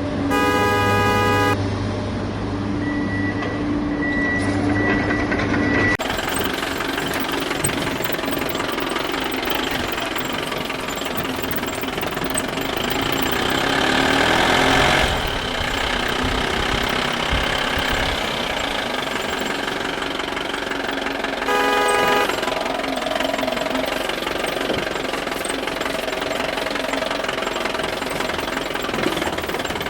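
Vehicle engine sound running continuously, with a horn blaring briefly at the start and again about two-thirds of the way through.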